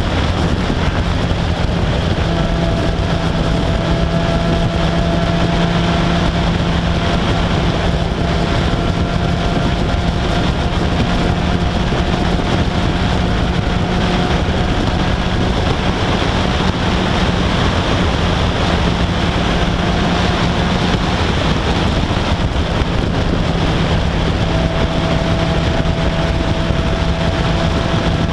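Vintage MG race car's engine running steadily at speed from the open cockpit, its note holding almost constant apart from a brief dip about three-quarters of the way through, under heavy wind rush on the microphone.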